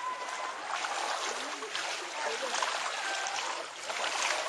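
Floodwater splashing and rushing, a steady watery noise.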